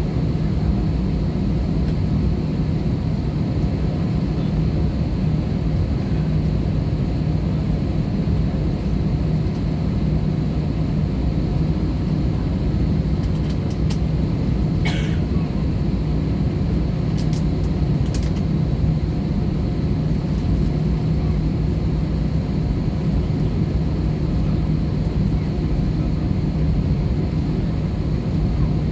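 Airbus A320-214 passenger cabin in flight: the steady drone of its CFM56 engines and airflow, with a low hum. A few faint clicks about halfway through.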